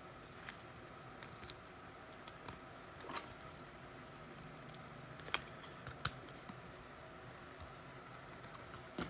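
Faint, scattered clicks and light taps of trading cards being handled and sorted, about eight over several seconds, over low room hiss.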